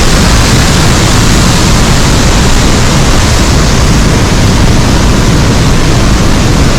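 Roar of a large waterfall at close range: a loud, steady rush of falling water with no break.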